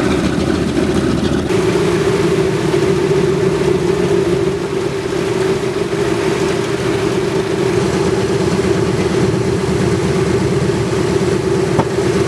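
Large piston aircraft engines, likely the B-17's radials, running with a steady, loud drone.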